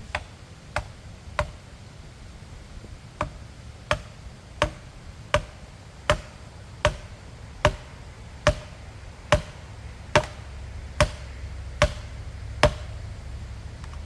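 A plastic felling wedge being driven into the back cut of a pine with about sixteen hard, regular blows, roughly one every three-quarters of a second, with a short break after the first three. Each blow is a sharp knock with a brief ring.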